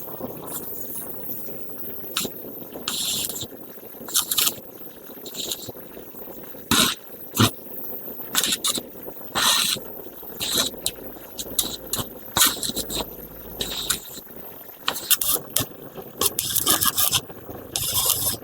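Irregular scraping and brushing strokes of hand work on the motor's metal parts, in short uneven bursts, with two sharp clicks about seven seconds in.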